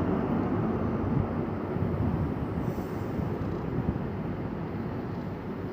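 High Speed Train led by a Class 43 diesel power car running along the platform, a steady rumble of engine and wheels that eases slowly.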